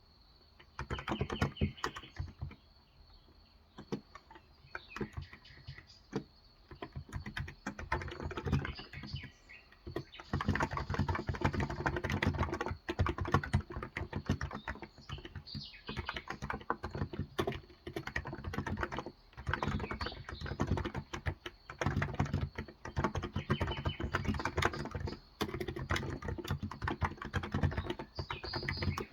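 Typing on a Cox Endeavor electro-capacitive (Topre-style) tenkeyless keyboard with light 35 g switches. The keystrokes come in quick bursts with a couple of short pauses in the first ten seconds, then run almost without a break.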